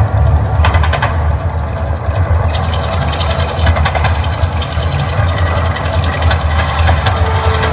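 Volcano show eruption effect: a deep, continuous rumble with crackling and popping over it from about two and a half seconds in.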